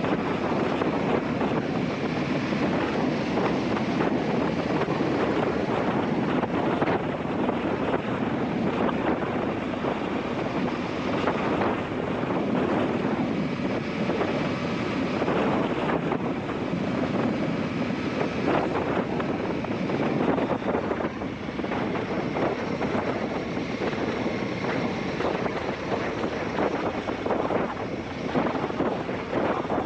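Heavy wind noise buffeting a GoPro microphone on a moving motorcycle, with the Aprilia Shiver 750's V-twin engine running underneath. The sound is steady and gusting throughout.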